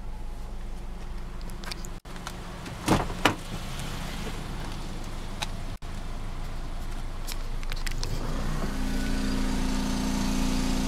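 The 2001 Honda CR-V's four-cylinder engine idling, a steady low hum heard inside the cabin. Two sharp clicks come about three seconds in, and near the end the hum grows louder with a steadier tone.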